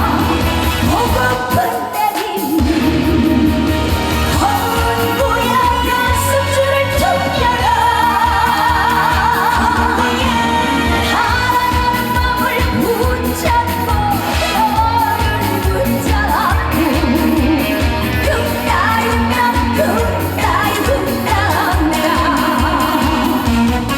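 Live trot band music with a steady beat and a wavering lead melody, a break between the sung verses of the song.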